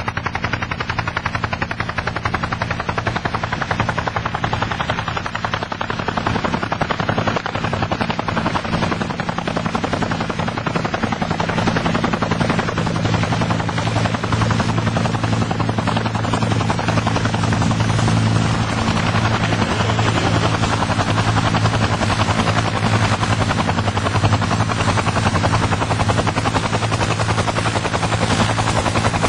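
UH-1H Huey helicopter running, its rotor beating in a fast, even chop over a steady engine drone that grows louder about twelve seconds in and stays up.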